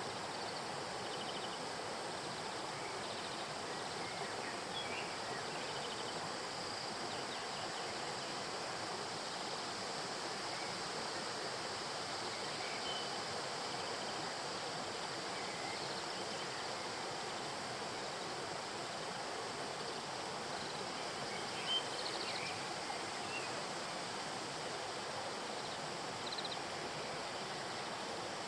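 Steady rush of flowing river water. Faint short chirps come through here and there, and a single brief sharp sound stands out about two-thirds of the way through.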